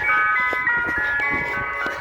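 Ice cream van's chime playing its tune, a quick melody of high clear notes.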